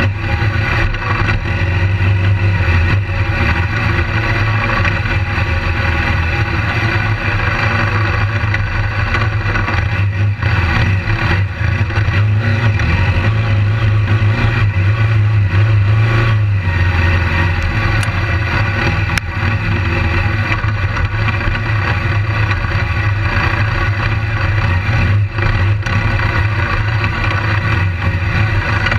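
BMW GS adventure motorcycle's engine running hard under throttle, close to a bike-mounted camera. The engine note holds strong, then eases for a moment around sixteen seconds in before picking up again.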